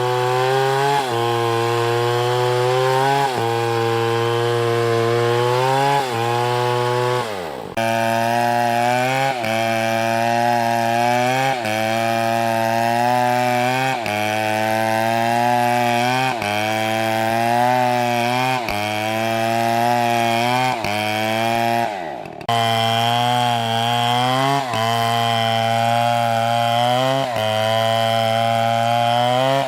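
Gasoline chainsaw running at high speed while cutting into wood, its engine note sagging under load and picking back up every second or two. Twice the engine pitch drops away steeply and then it is abruptly back at full speed.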